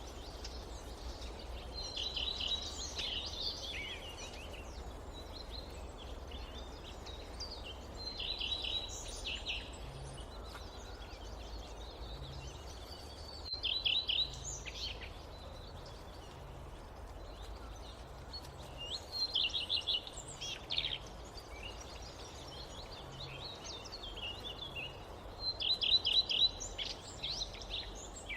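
A songbird singing short phrases of quick, high notes, repeated about every five to six seconds, five times, over a steady low background rumble.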